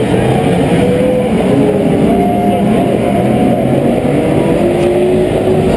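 A pack of Pro 4 off-road race trucks' engines running hard around the track. Several engine notes rise and fall over one another as the trucks rev up and ease off.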